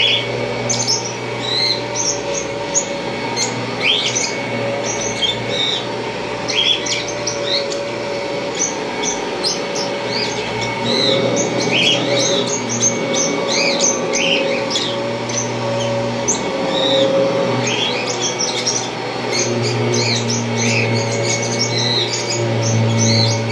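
1991 Kirby Generation 3 upright vacuum cleaner running with a steady motor hum, its low hum swelling near the end. Many short high chirps sound irregularly over it.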